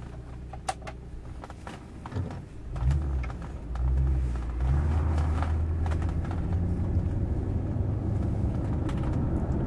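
Rolls-Royce Silver Shadow II's 6.75-litre V8 running, a low steady rumble that comes up about three seconds in and holds from about four seconds on.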